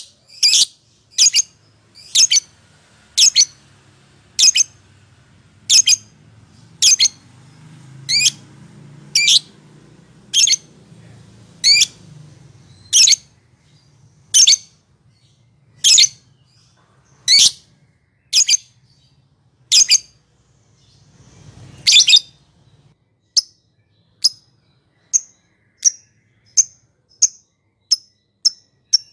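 Lovebird giving sharp, high chirps one after another, about one a second; about two-thirds of the way through they change to a quicker run of shorter, fainter chirps, about two a second.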